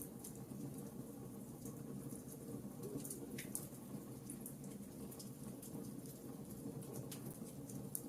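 Logs burning in a fireplace, crackling with frequent small pops over a steady low rush of the fire; one louder pop about three seconds in.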